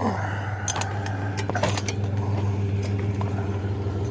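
Truck engine idling steadily, with a few sharp metal clanks and rattles of scrap being handled.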